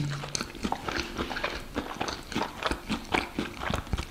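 A person chewing a mouthful of carrot cake close to the microphone: soft, irregular mouth clicks.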